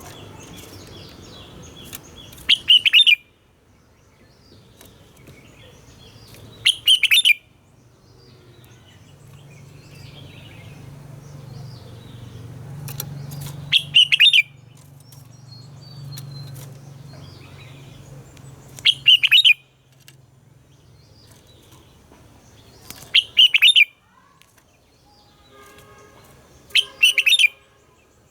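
Red-whiskered bulbul singing: six loud, short phrases, one every four to five seconds, with softer chirps between them.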